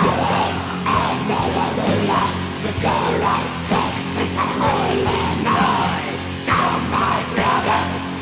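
Black metal from a raw demo tape recording: the band playing a loud, distorted instrumental passage between sung lines.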